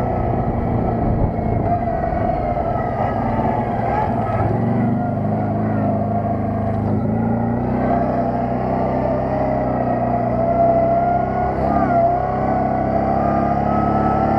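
ATV engine running steadily under way, its pitch rising and falling a little.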